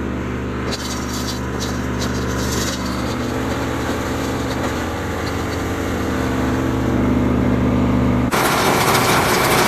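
A 36 hp diesel engine driving a small mobile hammer crusher runs with a steady note, slowly getting louder as the load is brought up. About eight seconds in, the sound switches abruptly to a louder, harsher rushing noise.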